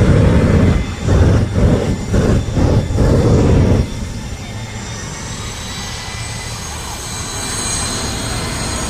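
Monster truck engine revving hard in several loud bursts. It then runs more steadily, with a high whine that slowly rises in pitch.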